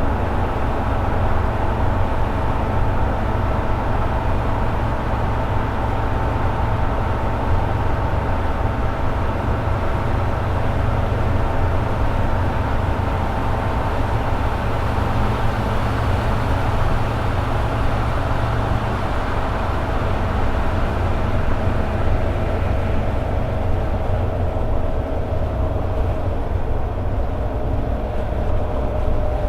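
Toyota AE86 Sprinter Trueno's 4A-GE inline-four running steadily at highway cruising speed, over a constant low rumble. The engine note drops slightly near the end.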